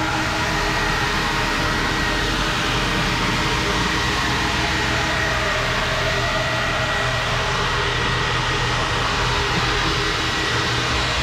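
Automatic car wash machinery running steadily, heard from inside the car: a constant rushing noise with a steady mechanical hum.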